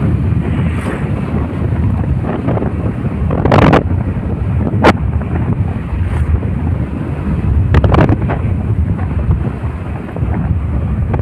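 Wind buffeting the microphone in a steady low rumble, with a few sharp knocks, about four and five seconds in and again near eight seconds.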